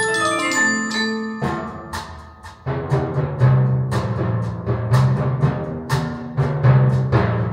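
Percussion-heavy recorded music played through Børresen Acoustics X6 tower speakers in a room: deep drum hits with quick runs of struck notes falling in pitch, repeating about every second.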